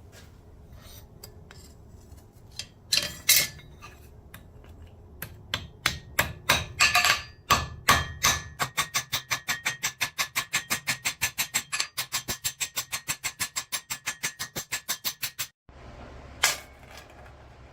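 Hammer striking steel while rivets are being made: a few scattered ringing blows, then a fast, even run of about five light blows a second for several seconds. The run stops abruptly, and there is one more strike near the end.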